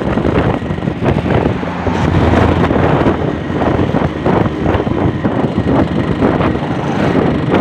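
Yamaha RX-King two-stroke motorcycle engine running while the bike is ridden, with wind buffeting the microphone.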